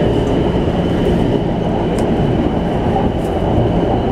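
Train running along the track: a steady rumble of wheels on rails with a faint steady high tone.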